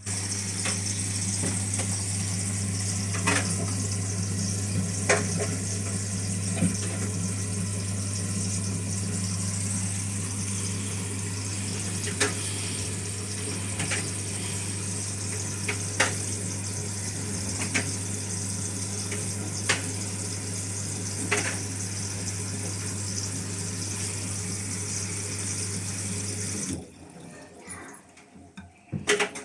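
Hotpoint-Ariston AQ105D 49D washing machine taking in water: a rush of water over a steady low hum, with faint clicks every couple of seconds. It starts suddenly and cuts off shortly before the end.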